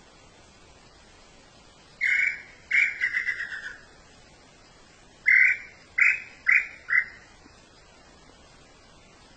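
A bird calling: a short note, then a note that trails off into a quick stuttering run, and after a pause four loud separate notes, each shorter than the last, over a steady hiss.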